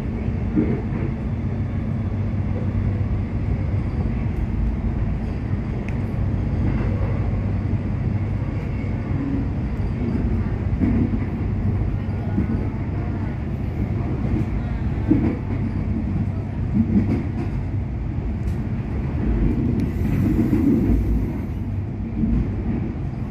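Interior of a Melbourne suburban electric train running along the line: a steady low rumble and hum of the carriage in motion, with a few scattered clicks from the wheels on the track.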